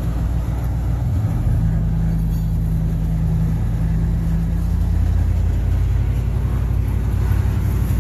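Pickup truck's engine running under way, with road and tyre rumble heard from inside the cab. It is a steady drone whose pitch shifts a little about a second in.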